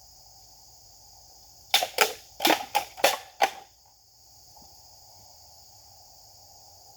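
Six sharp cracks in quick succession, beginning about two seconds in and over within two seconds, over a steady chorus of insects.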